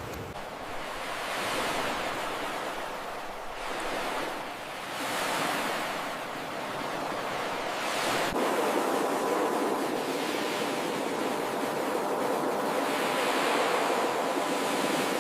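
Ocean surf: waves breaking and washing onto the shore, swelling and easing every few seconds. A faint steady tone sits under the surf in the second half.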